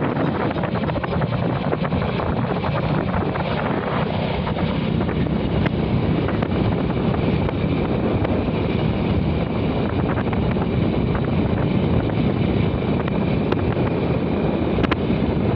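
Steady wind buffeting the microphone over a continuous low rumble, with a few faint clicks.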